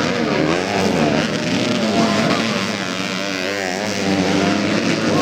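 Several racing motorcycle engines revving, their pitch rising and falling over and over as the bikes run on the grasstrack.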